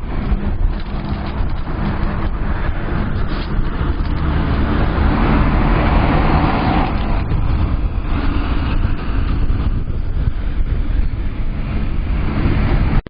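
Continuous rumbling road and wind noise of a mountain-bike ride, heaviest low down and swelling about halfway through.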